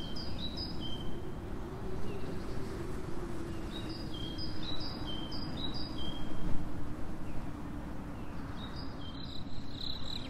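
Birds chirping in quick series of short whistled notes, in two bouts, over a steady low rumble. About nine seconds in, a cricket's steady high trill comes in.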